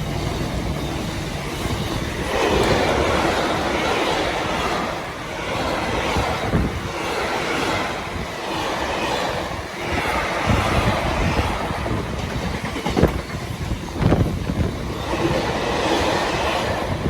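Freight train wagons rolling past at speed, their wheels clattering over the rail joints in an uneven run of repeated knocks.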